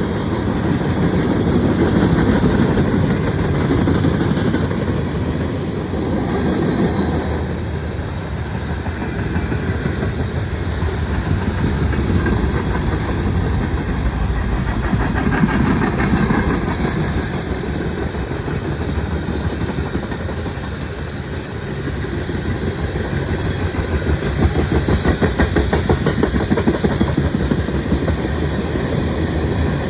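Mixed freight train rolling past, with steady wheel-on-rail rumble and rhythmic clickety-clack of wheels over rail joints. The clacking grows strongest near the end.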